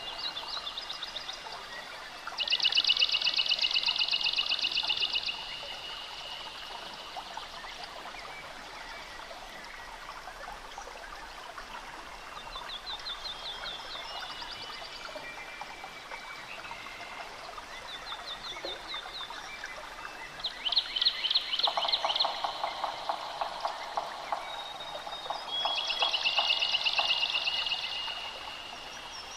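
Forest birds singing: a high, rapid trill lasting about three seconds comes three times, with fainter shorter trills in between. A lower, fast pulsing call runs for the last several seconds, over a steady background hiss.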